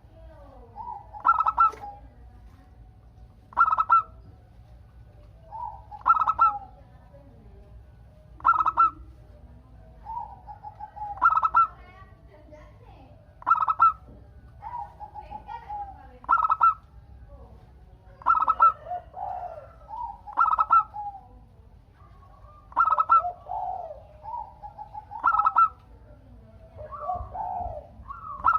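Zebra dove (perkutut) cooing: its phrase repeats about every two and a half seconds, a run of lower notes ending in a louder, higher note.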